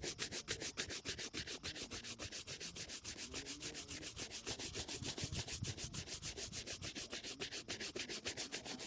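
Shoe being buffed during a shoe shine: quick, even back-and-forth strokes, about seven a second.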